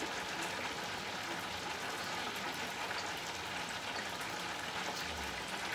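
Chicken wings frying in hot oil: a steady, even sizzle.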